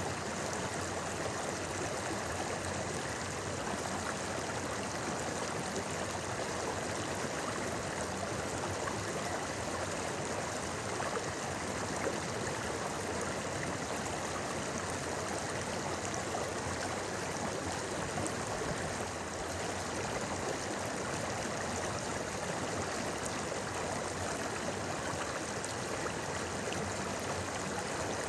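Shallow river babbling and flowing steadily over stones, a constant rushing and gurgling of water.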